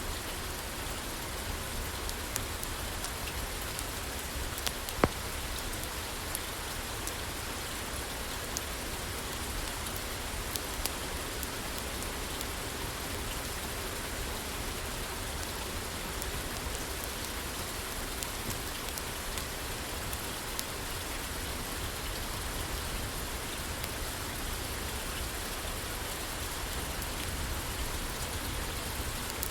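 Steady rain falling on a roof, an even wash of patter with a low rumble underneath, with scattered sharp pops from a crackling wood fire, the loudest about five seconds in.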